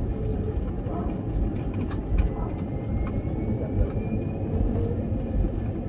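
Steady low rumble of a moving vehicle, with scattered light clicks and a faint whine that rises slowly in pitch partway through.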